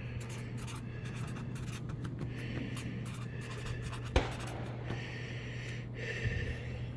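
Pen writing on a paper target, in scratchy strokes with a short pause in the middle, over a steady low hum; a single sharp tap a little after four seconds in.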